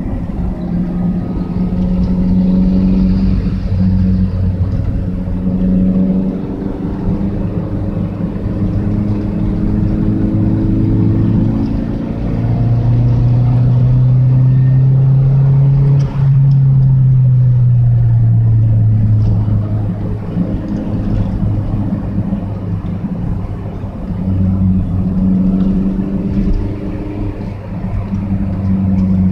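Daihatsu Sirion's engine and exhaust through an aftermarket Tanabe muffler, running steadily. Midway the engine note climbs for about four seconds, breaks off for an instant, then falls away before settling back to the steady note.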